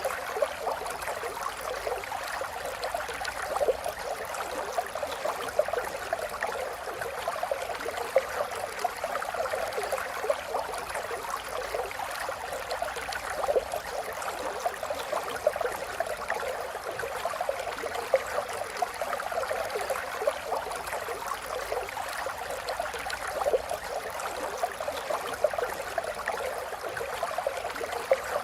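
Running water of a small stream, a steady babbling flecked with many brief splashes and gurgles.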